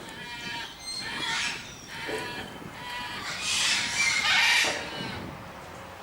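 Chickens calling, with a louder, harsh call lasting over a second about three and a half seconds in.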